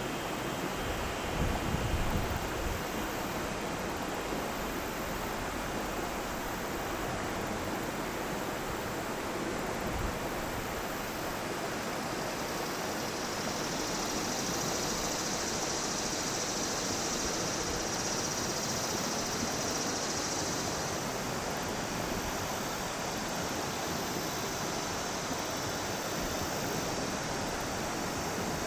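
Yellow River water rushing steadily, an even, unbroken roar of flowing water. A few low wind buffets on the microphone come near the start, and a higher hiss rises in the middle and fades again.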